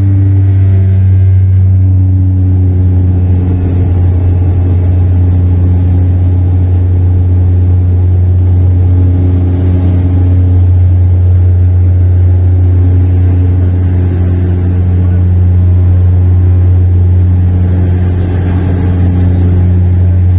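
Passenger airliner's engines heard from inside the cabin during the climb after take-off: a loud, steady, deep drone with fainter tones above it.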